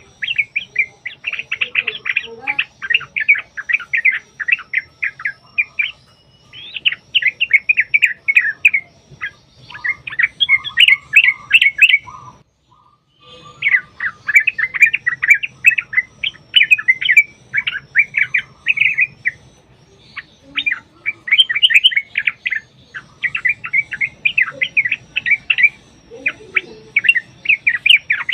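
Yellow-vented bulbuls (trucuk) calling in long, fast chattering runs of bubbly notes, one run after another, with a brief pause about halfway through.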